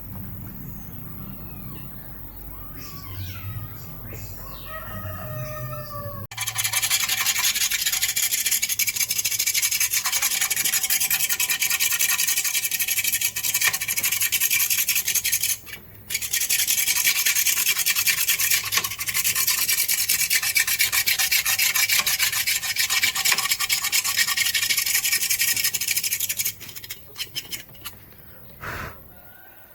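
Loud, steady abrasive rubbing of a blender part being sanded for restoration. It starts abruptly about six seconds in, pauses briefly partway through and stops a few seconds before the end. Before it, faint rising and falling bird calls are heard.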